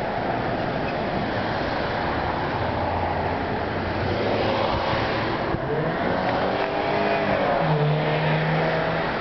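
A car engine running amid steady rushing noise, its pitch shifting up and down in the second half.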